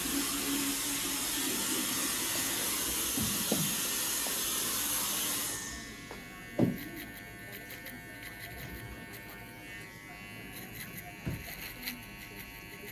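TPOB GO hair clippers running with a faint steady buzz. A loud, steady high hiss covers the first half and cuts off sharply about six seconds in. A few dull knocks come through, the sharpest about six and a half seconds in.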